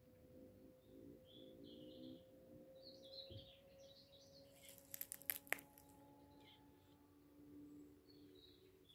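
Faint bird chirps repeating throughout, over a quiet open-air background, with a short cluster of sharp clicks about five seconds in.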